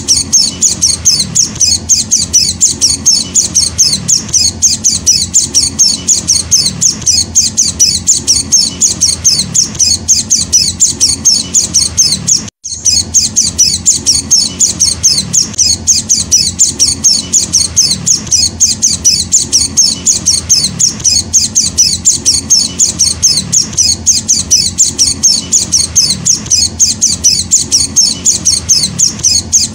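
A white-eye (Zosterops) chick calling: high-pitched chips repeated evenly, about three to four a second, broken by a momentary gap about twelve seconds in.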